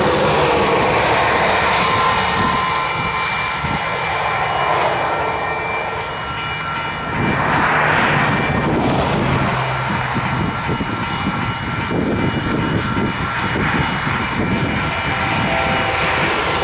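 Grade-crossing warning bell ringing over the steady noise of an approaching Union Pacific freight train's GE diesel locomotives.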